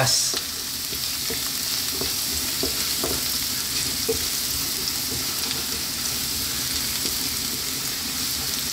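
Sliced ginger and minced garlic sizzling steadily in hot oil in a wok, with occasional light knocks of a wooden spatula stirring them. They are starting to toast.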